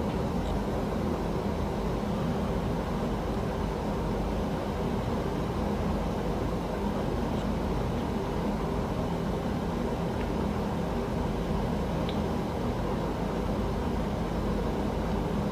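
Airbus A380 jet engines running during a landing, a steady deep rumble with wind noise on the microphone.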